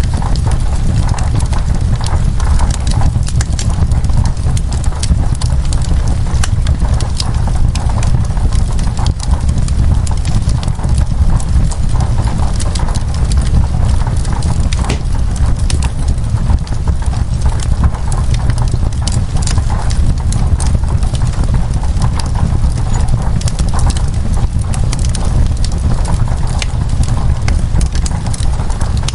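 Wood fire crackling in a fireplace, with many small, irregular sharp pops over a steady low rumble, mixed with rain on window glass.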